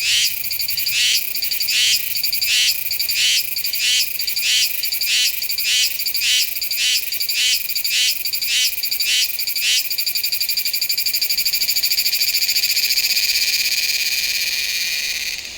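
Meimuna iwasakii cicada singing: a run of short, high-pitched pulsed phrases, nearly two a second. About ten seconds in they merge into one continuous buzz, which stops suddenly near the end.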